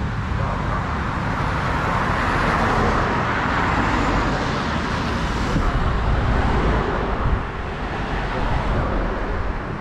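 Road traffic: motor vehicles running past on a city street, a steady wash of engine and tyre noise that swells about two to five seconds in and eases off after about seven seconds.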